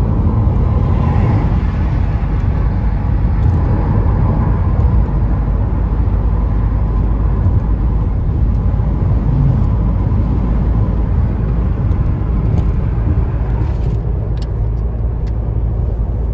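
Steady road and engine rumble of a moving car heard from inside the cabin, with a few faint clicks near the end.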